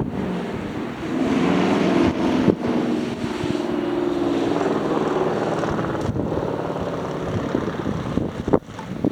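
A motor engine droning steadily under wind rumbling on the microphone, with a few sharp knocks.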